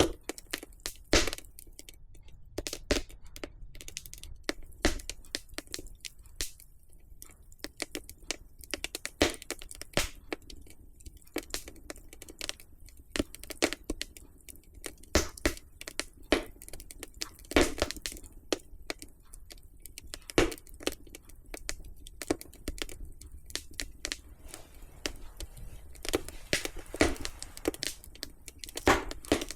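Wood fire crackling in a fireplace: irregular sharp pops and snaps, some much louder, over a faint low hiss of burning.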